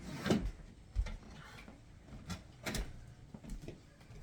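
A handful of irregular knocks and clunks of hard objects being handled or set down, the loudest about a third of a second in.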